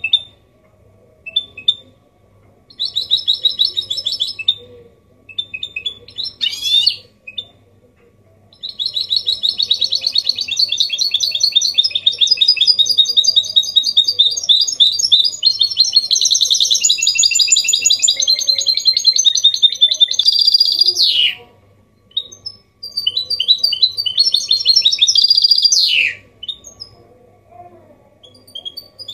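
Goldfinch mule (goldfinch × canary hybrid) singing in the 'copia Malaga' style. It gives short phrases of rapid twittering trills, then one long unbroken run of fast trills and sweet notes lasting about twelve seconds that ends in a falling slur, and then another trilled phrase.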